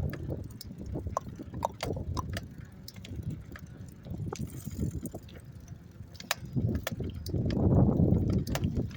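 Riding a bicycle: a steady low rumble of wind on the microphone and tyres, with irregular clicks and rattles, and a stronger gust about two-thirds of the way through.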